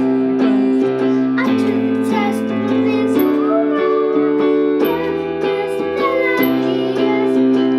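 A song played on a musical instrument after a count-in, with held chords that change every second or two and a wavering melody line above them.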